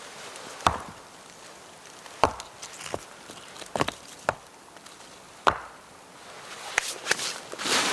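Wood being chopped: a series of sharp, irregularly spaced strikes, with a rustling noise building near the end.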